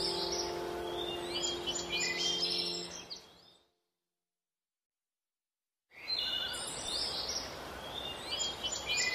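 Birds chirping over a steady outdoor hiss, with a few held low tones underneath. The sound fades out about three and a half seconds in and cuts to dead silence for about two seconds. Then the chirping and hiss come back.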